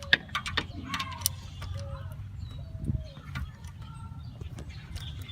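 A quick run of sharp clicks and taps from hand tools on the screws of an LS1 engine's EGR valve, over a steady low hum, followed by several short bird calls.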